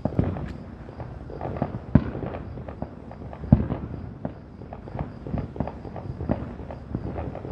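Fireworks going off: a continual run of sharp bangs and crackling pops, the two loudest bangs about two seconds and three and a half seconds in.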